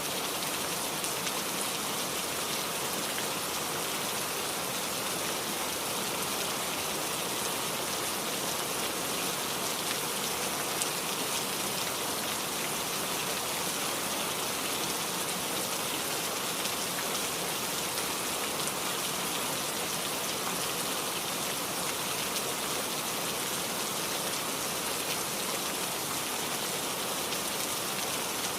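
Heavy rain falling steadily: a dense, even hiss with many small drop hits.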